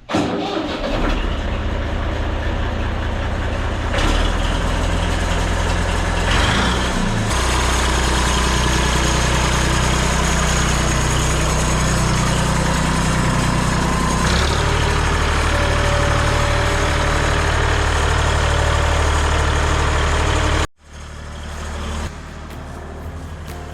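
Tractor engine running under throttle, its pitch shifting a few times as the engine speed changes. It cuts off abruptly about 21 seconds in, and a quieter engine sound follows.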